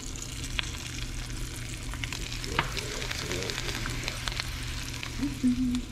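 Bluegill frying in hot grease: a steady sizzle with frequent sharp crackles and pops, growing busier about two seconds in.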